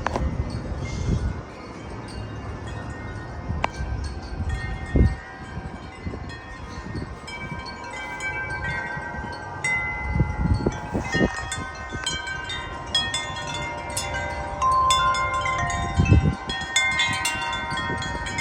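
Several metal wind chimes ringing in strong, gusty wind: a few scattered tones at first, building into a busy jangle of many overlapping tones in the second half. Gusts buffet the microphone in short low rumbles now and then.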